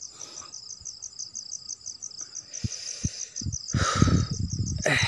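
Crickets trilling in a steady, high, pulsing chorus. Scattered soft low thumps and a louder rustle about four seconds in break through it.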